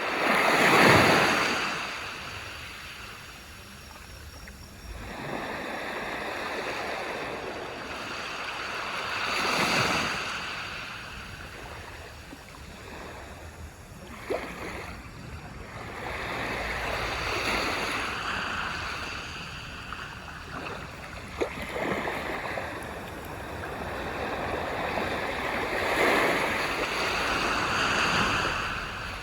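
Small sea waves breaking and washing up a beach, each surge swelling and fading over several seconds, roughly every eight seconds, the loudest near the start. A couple of brief sharp ticks sound in the middle.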